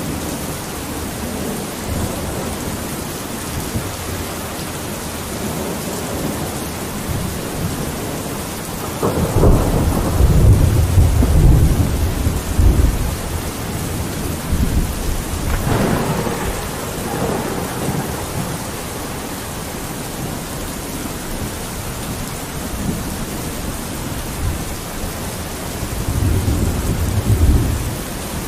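Steady rain on a window, with low rolls of thunder rumbling about nine seconds in, again some seven seconds later, and once more near the end.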